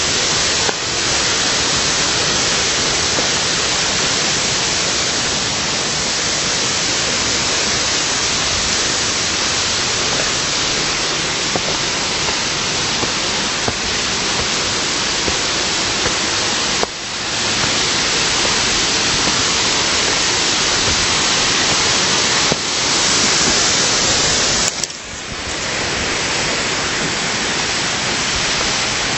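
Steady rush of falling water from an artificial waterfall, close by and loud, dipping briefly twice.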